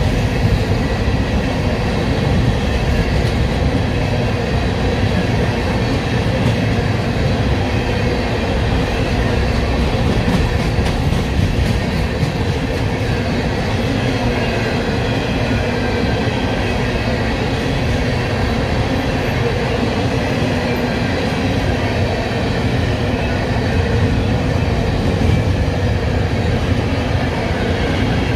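Train rolling past close by: a steady, loud rumble of wheels on rails, with light clicks of wheels crossing rail joints.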